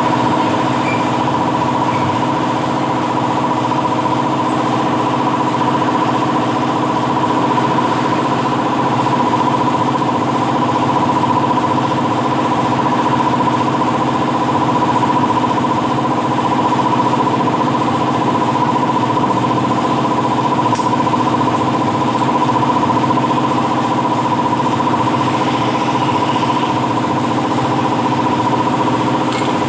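A motor or engine running steadily with an even, unchanging hum and a strong steady whine.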